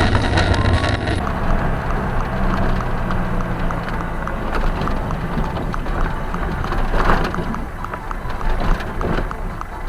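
Motor vehicle driving: steady engine and road noise, with a few faint knocks.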